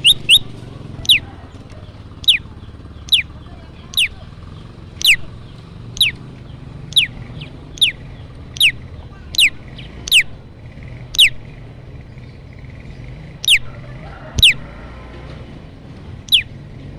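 Prenjak lumut calling: short, sharp, high notes that each sweep steeply down in pitch, repeated about once a second and sometimes doubled, over a steady low hum.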